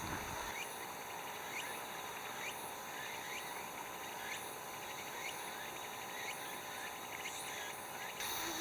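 Outdoor insect chorus: steady chirring of crickets or similar insects, with a short chirp call repeating about once a second.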